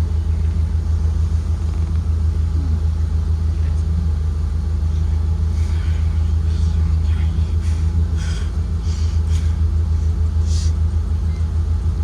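Steady low rumble of a 2023 Blue Bird Vision school bus under way, its Ford 7.3L engine and road noise heard from inside the bus. A few light clicks and rattles come through in the second half.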